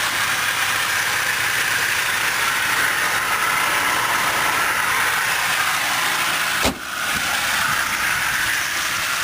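A 2006 Dodge Durango's 5.7-litre HEMI V8 idling, heard from the open engine bay as a steady, even running noise. A single short knock about two-thirds of the way through.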